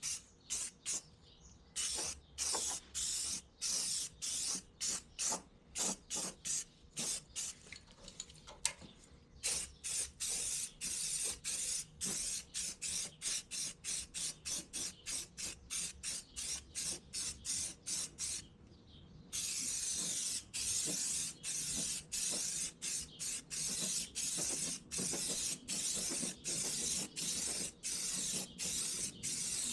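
Paint being sprayed in quick, short hissing bursts about twice a second, turning into longer, nearly continuous spraying about two-thirds in.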